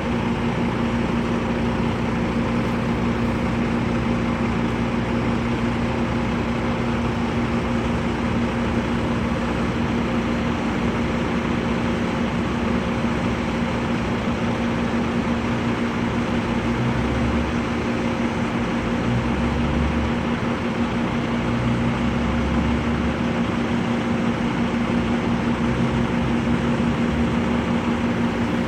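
A motor vehicle running with a steady engine hum and a constant low drone. A few low thuds come about two-thirds of the way through.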